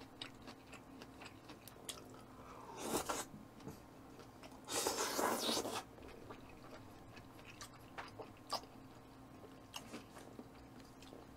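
A person eating raw tuna sashimi close to the microphone: quiet chewing and mouth sounds with scattered faint clicks, a short noisy burst about three seconds in and a longer, louder one about five seconds in.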